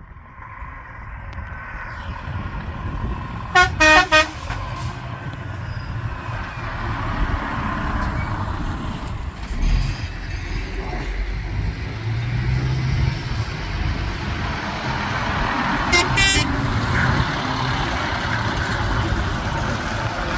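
Truck engines rumbling as lorries drive in, louder after the first few seconds. A horn sounds three short toots about four seconds in and another brief toot about sixteen seconds in.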